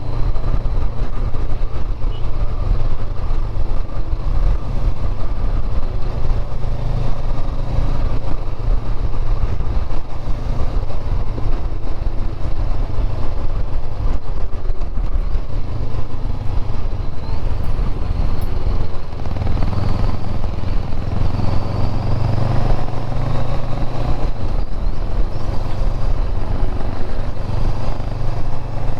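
Motorcycle engine running steadily while riding along a road, heard from the rider's camera rig, with road and wind noise. The engine note swells a little about two-thirds of the way through.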